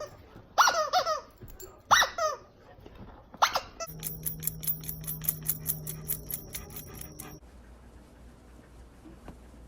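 A dog gives three short, high-pitched cries, each falling in pitch, about a second and a half apart. They are followed by a few seconds of quick, even clicking, about six a second, over a steady hum, which stops suddenly.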